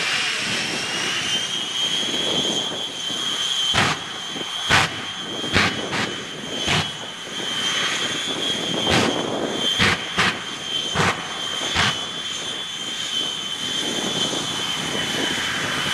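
Jet engines of the ShockWave jet truck running with a steady high whine that climbs a little at first and then holds. About ten sharp bangs go off at uneven intervals through the middle.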